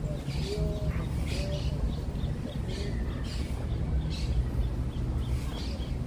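Birds calling: short high chirps about once a second, with a few brief low notes in the first three seconds, over a steady low rumble.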